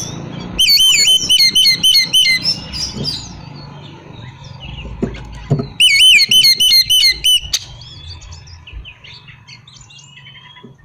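Oriental magpie-robin (kacer) singing: two bouts of a quickly repeated looping whistle, about three notes a second, with softer varied chirps and twitters between them.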